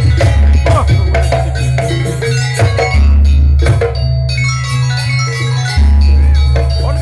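Jaranan music playing loudly: fast drum strokes and ringing mallet-struck metal keys over a deep bass that sounds in long held notes.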